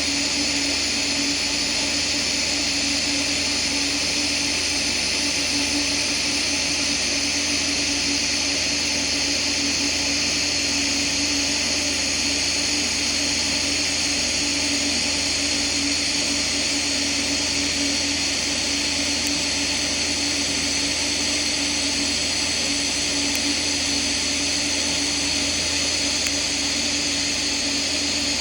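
TIG welding arc running steadily: an even hiss with a constant buzz underneath, unbroken throughout.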